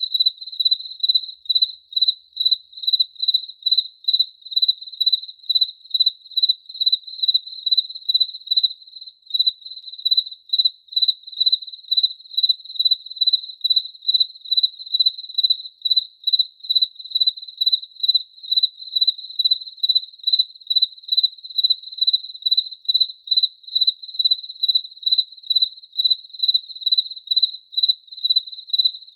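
A cricket chirping in a steady, even rhythm of about two high-pitched chirps a second.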